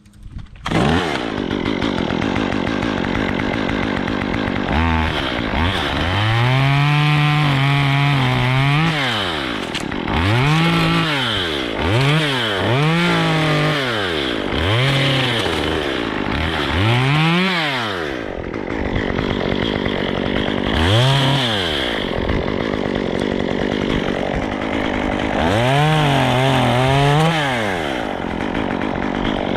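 Two-stroke chainsaw running and revved up and down over and over, sometimes held at high speed for a couple of seconds, as in cutting wood. It starts about half a second in.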